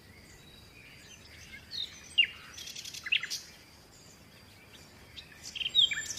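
Birds chirping: a few groups of short, high chirps that fall quickly in pitch, the sharpest about two seconds in.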